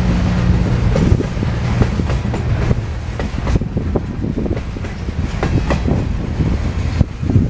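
Freight train's refrigerated boxcars rolling past, steel wheels clattering and knocking irregularly on the rails. A low steady hum fades out about a second in, and a louder knock comes near the end.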